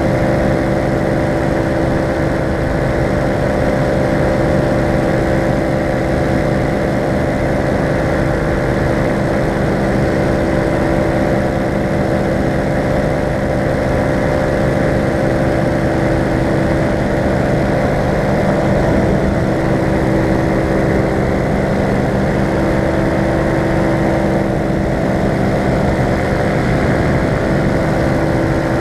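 Falcon four-stroke paramotor engine and propeller running at a steady throttle in flight, a constant drone that does not change pitch.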